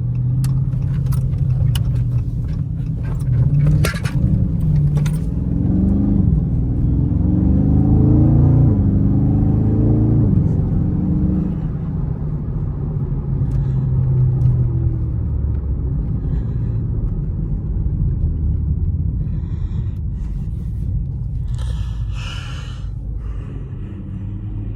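Dodge Charger Scat Pack's 6.4-litre HEMI V8 pulling hard, its pitch climbing and dropping back twice as it shifts up, then settling into a steady cruise. A few light clicks come in the first seconds.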